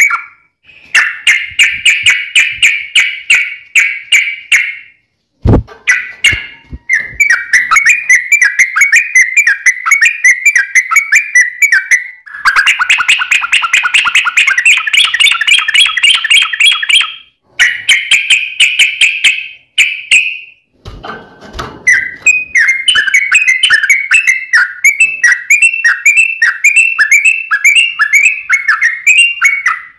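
Yellow-vented bulbul (trucukan) singing in long, fast runs of bubbly chattering notes, broken by short pauses about every four to five seconds, with a sharp click at two of the breaks. This is a long continuous song ("ropel panjang") used as a lure to get other bulbuls to answer.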